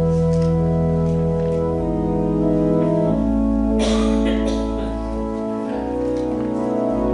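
Organ playing slow, sustained chords over deep held bass notes, the chord changing every second or two. A brief rustling noise about four seconds in.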